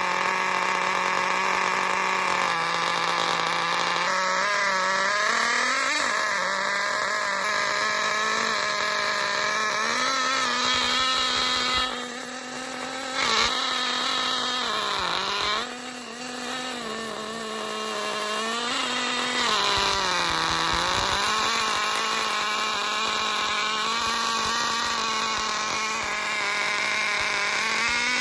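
Small nitro glow engine running after being pull-started and primed, its speed wavering and sagging several times, with two brief drops in loudness about halfway through.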